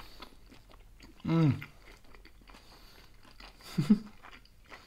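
A person chewing a mouthful of steamed dumpling close to the microphone, with small wet mouth clicks. Two closed-mouth voice sounds are the loudest parts: a hummed 'mmm' of enjoyment about a second in, and a shorter one just before four seconds.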